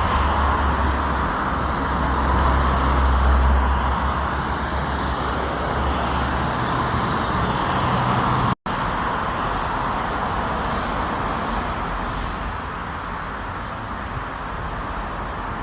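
Steady road-vehicle noise, a rumble and hiss of car travel, broken by a sudden cut about eight and a half seconds in, after which the same kind of noise goes on.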